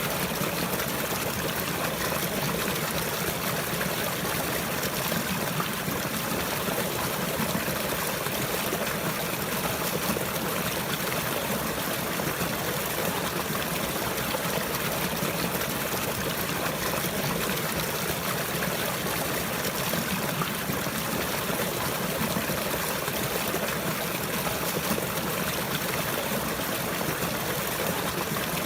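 Water flowing and trickling steadily, an even rush with no breaks or changes.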